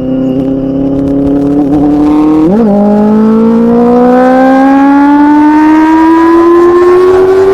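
Benelli 600i's inline-four engine through an SC Project aftermarket exhaust, pulling under load. The exhaust note shifts with a quick blip and drop in pitch about two and a half seconds in, then climbs steadily as the bike accelerates in the next gear.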